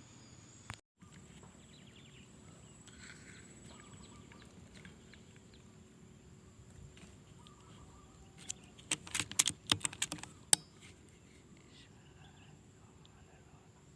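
Forest ambience: a steady high-pitched insect drone with faint bird chirps. About two-thirds of the way through comes a quick cluster of sharp crackling clicks, the last one the loudest.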